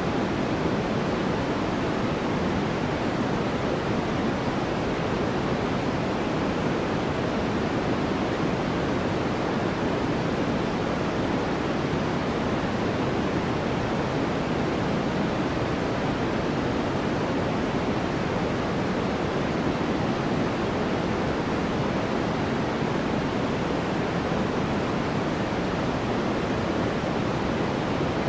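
Steady, unchanging sleep white noise: an even rushing hiss, heavier in the low and middle range than at the top.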